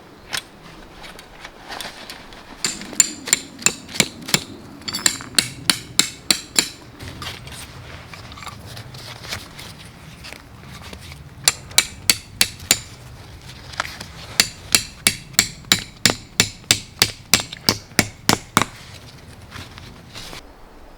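A hammer striking repeatedly with sharp, ringing blows, about two to three a second, in two runs separated by a pause of a few seconds.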